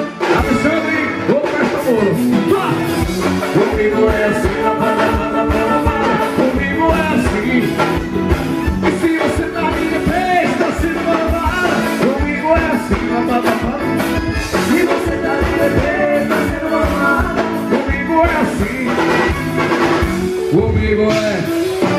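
Live forró band playing with a lead vocalist singing over a steady drum beat, amplified through a PA.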